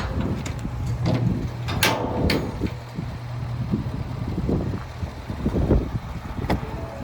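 Ford 6.7L Power Stroke V8 diesel of a 2019 F-550 idling with a steady low hum, with gusts of wind on the microphone and a few sharp knocks, two of them about two seconds in.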